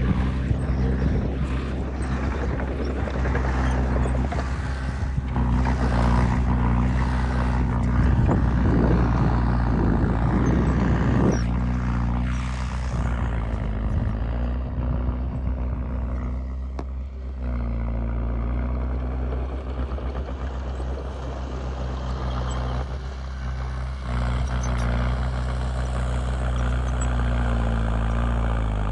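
Diesel engine of a Komatsu D20P small bulldozer running steadily under load, with crunching and clattering noise through the first eleven seconds or so from the tracks and blade working soil. The engine note dips briefly twice later on.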